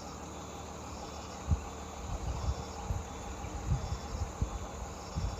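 Insects chirping in pulses about once a second over a steady outdoor background, with several low thumps, the loudest about one and a half seconds in.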